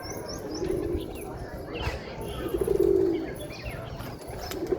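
Domestic pigeons cooing: two low, drawn-out coos about two seconds apart, with a few short high chirps from small birds in between.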